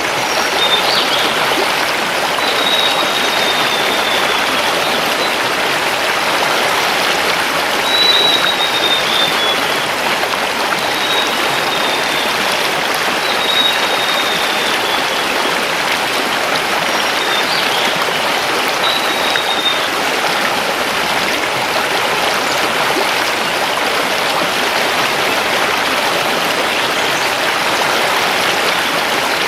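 Mountain river flowing over stones: a steady rush of water. Over it, a forest bird gives short high whistles that fall in pitch, repeated every few seconds, and stops about two-thirds of the way through.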